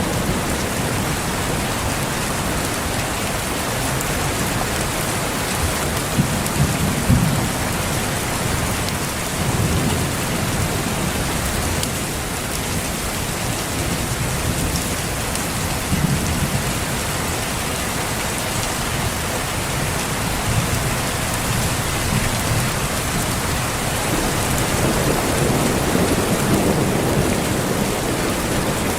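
Steady heavy rain with low rumbles of thunder swelling and fading several times, strongest about seven seconds in and again near the end.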